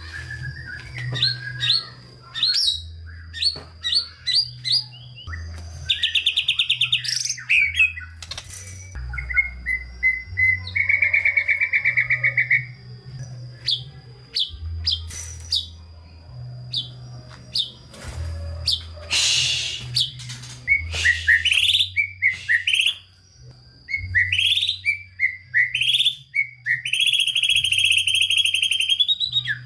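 White-rumped shama (murai batu) singing a long, varied song of quick whistled phrases and chirps broken by fast rattling trills, with a long buzzy trill near the end. The song is packed with mimicked calls of other birds.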